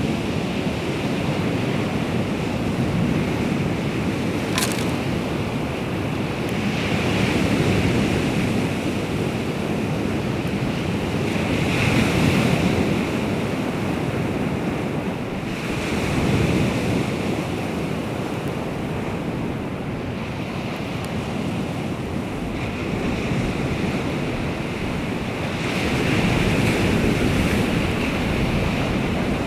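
Baltic Sea waves washing onto the shore, swelling and easing every few seconds, with wind buffeting the microphone. A single sharp click comes about four and a half seconds in.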